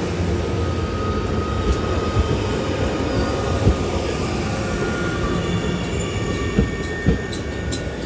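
Bombardier MR-90 electric multiple-unit commuter train rolling past: a steady rumble of wheels on rail with a faint thin squeal. A few sharp clicks come through, most of them near the end.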